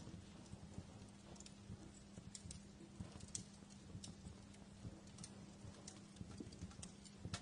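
Wood fire crackling quietly: irregular small pops and snaps, a few each second, over a faint steady low hum.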